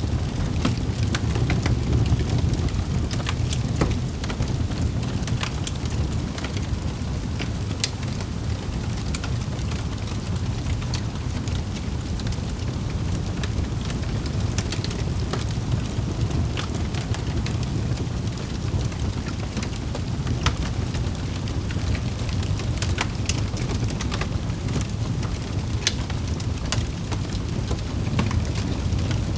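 Fireplace fire crackling: irregular sharp pops and snaps over a steady low rumble of the burning fire.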